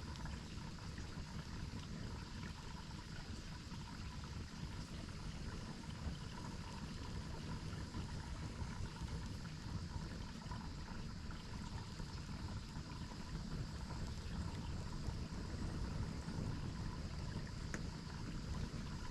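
Steady rushing of a waterfall, an even noise heaviest in the low end.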